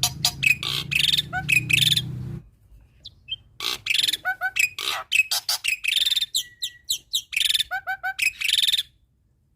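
Male black-winged myna (jalak putih) singing a fast song of harsh clicking chatter mixed with short whistled notes, some in quick runs of three and one held thin whistle. It breaks off about two and a half seconds in, resumes about a second later and stops near the end. A low hum runs under the first couple of seconds.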